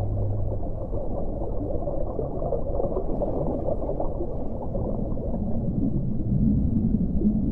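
Underwater ocean ambience: a steady, dull, muffled wash of water noise with a flickering texture, and a low sound swelling in near the end.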